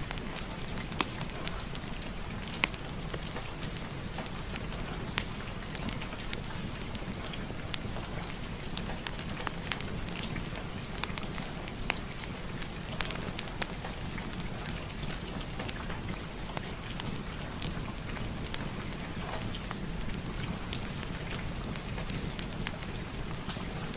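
Steady rain mixed with a crackling fireplace fire, with scattered sharp crackles throughout.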